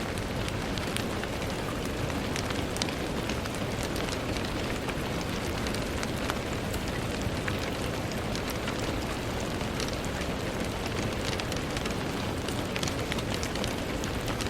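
Steady rain pattering on a window, a constant hiss with many small scattered drop ticks.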